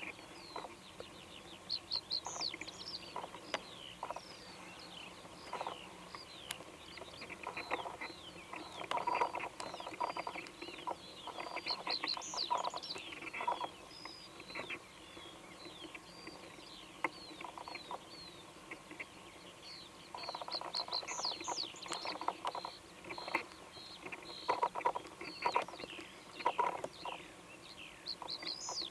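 Wild birds singing and calling: many short chirps and whistles overlapping. They are busiest about a third of the way in and again in the last third.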